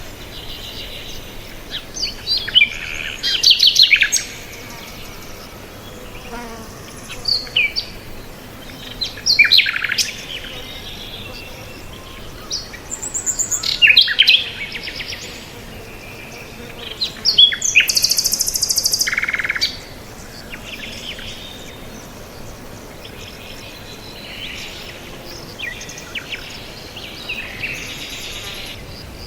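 Wild birds chirping and calling in bursts of rapid, high-pitched notes a few seconds apart, the busiest stretch coming just before halfway. Quieter, rhythmic chirping follows near the end, over a faint steady hiss.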